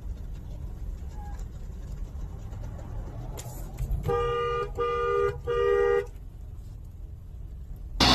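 Vehicle horn honking three times in quick succession, each blast about half a second long, in a two-note chord, over a low rumble of engine and traffic.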